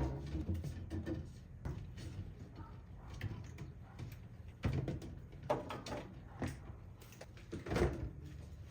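Containers and packages being handled and set down while restocking a fridge: a string of knocks and clatters at irregular intervals, about a second apart.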